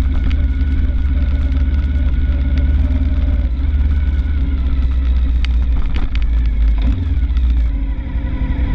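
Suzuki TL1000 V-twin engine running steadily as the motorcycle rolls slowly at low speed, heard from a camera mounted on the bike itself.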